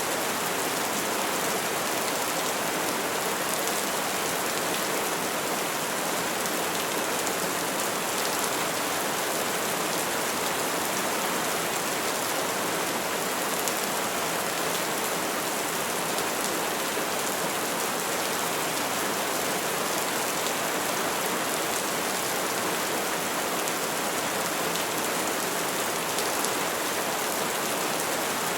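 Calm, steady rain falling on trees: an even hiss of many drops.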